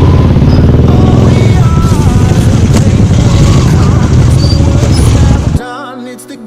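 Motorcycle engine running loudly while riding, cutting off abruptly about five and a half seconds in, after which only background music with singing remains.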